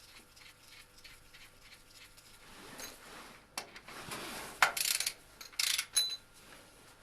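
A hand wrench ratcheting in two short bursts about a second apart, with a click before and a short metallic clink after, as a fastener is tightened to a torque spec of 30 and then 40. The first half is quiet.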